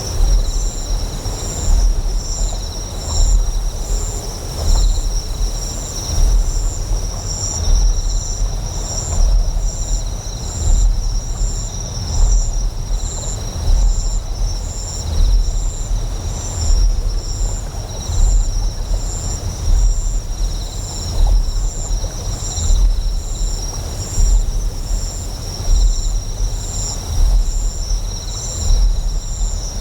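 Deep generator hum pulsing in slow swells about every one and a half seconds, under steady fast rhythmic insect chirping and a hiss of flowing water.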